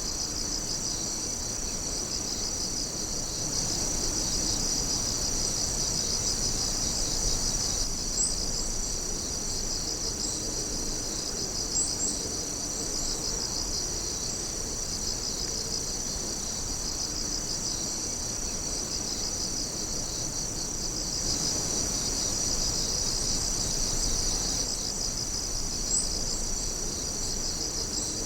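A dense, continuous chorus of night insects singing in a high, pulsing trill, with a few brief, sharper chirps standing out above it.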